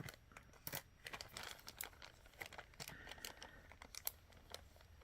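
Faint, scattered small clicks and crinkles of beads and their packaging being handled and sorted by hand.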